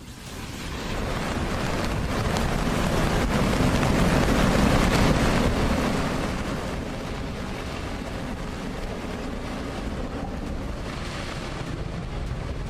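Floodwater rushing in a continuous wash, with wind noise on the microphone; it swells over the first few seconds and then holds steady.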